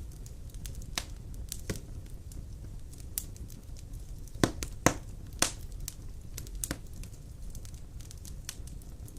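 Wood fire crackling in a fireplace: irregular sharp pops and snaps over a low steady rumble, with a cluster of louder snaps about halfway through.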